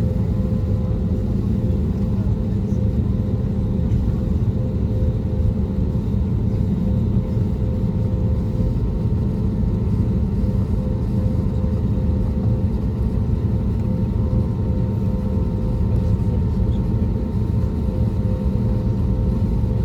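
Steady cabin noise inside an Airbus A320neo: a low, even rumble from the CFM LEAP-1A26 engines and airflow, with a steady hum on top.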